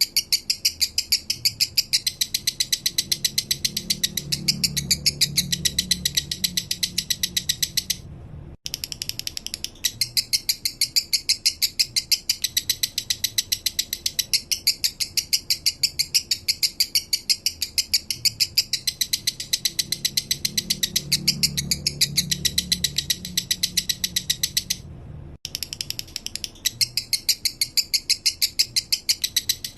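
Male lovebird singing its 'minor' song: a fast, even run of sharp high chirps like a ticking ratchet, breaking off briefly twice.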